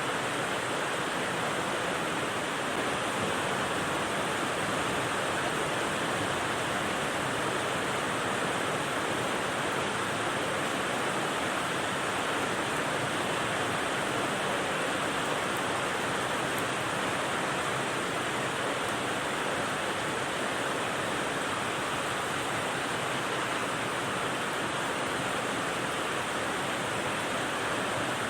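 Steady rain sound used as white noise: a dense, even hiss in which no single drops stand out and nothing changes.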